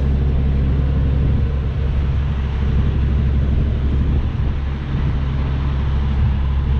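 International LT semi truck's diesel engine running steadily at low speed, a loud, even low drone heard inside the cab while the truck is maneuvered slowly.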